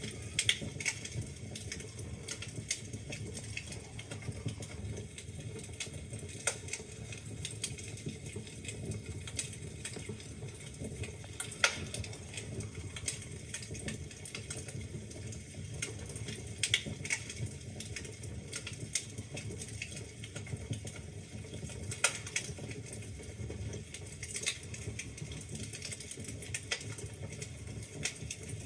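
Wood fire burning in a fireplace: a steady low rumble of flame with irregular crackles and pops from the logs, a few sharp pops standing out, one about 12 seconds in and another about 22 seconds in.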